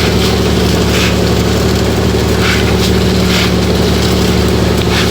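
Fishing boat's engine running steadily at a constant speed, an even drone with no change in pitch.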